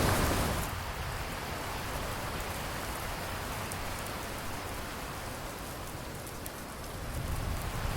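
Steady rain falling. A louder low rumble of thunder dies away in the first second, and another begins to swell near the end.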